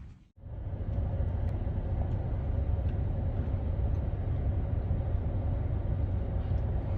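Steady low rumble of a motor vehicle on the move, engine and road noise without change in pace.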